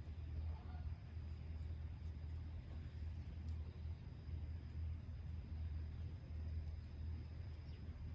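Insects chirping: a very high-pitched chirp repeating in an even, pulsing rhythm, over a steady low rumble.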